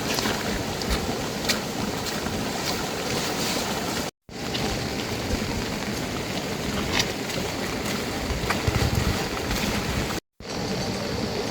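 Steady rain: a dense, even hiss with scattered faint drip ticks. It breaks off for a moment twice, about four and ten seconds in.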